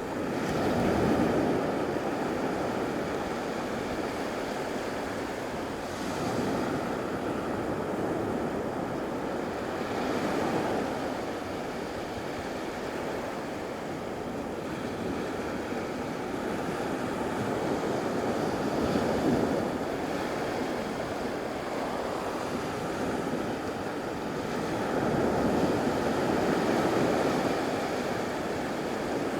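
Surf washing onto a beach, waves swelling and fading every few seconds.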